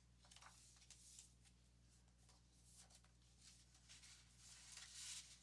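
Near silence: room tone with faint rustling and a few small clicks, a little louder near the end.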